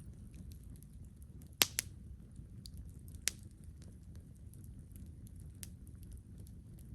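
Wood campfire crackling, with scattered small ticks and a few sharp pops, the loudest a pair of pops about one and a half seconds in and another near three seconds.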